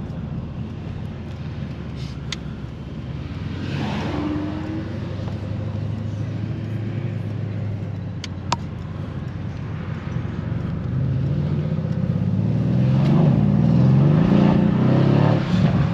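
Mercedes-AMG C63 S's 4.0-litre M177 twin-turbo V8 heard from inside the cabin, running steadily and then growing louder under a kickdown a little over two-thirds of the way in. The traction control cuts the power so the car hardly pulls.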